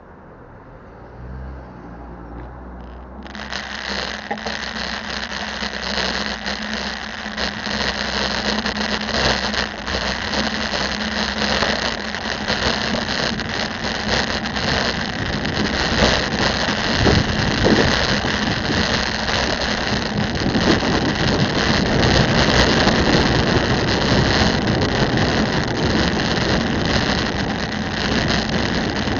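Street traffic and rushing noise heard from a moving bicycle, with a low engine hum in the first few seconds. About three seconds in the noise fills in suddenly, and it grows steadily louder from there.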